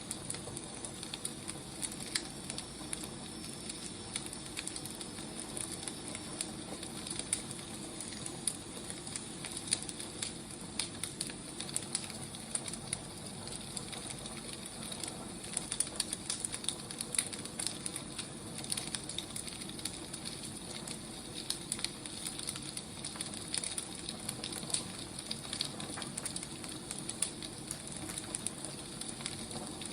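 Wood fire crackling, with frequent small irregular pops over a steady hiss.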